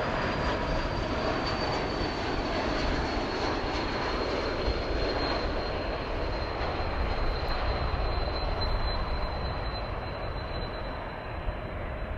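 Jet aircraft engines running, a steady rumble and rush with a high whine that slowly falls in pitch as the sound eases off slightly.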